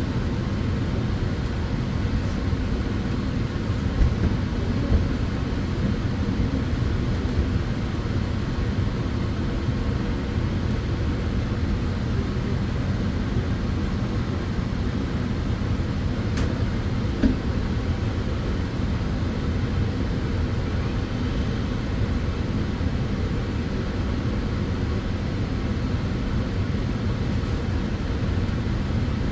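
Tanning bed (sunbed) running: a steady whirr from its cooling fans, deep and dense with faint humming tones, and a small click or two around the middle.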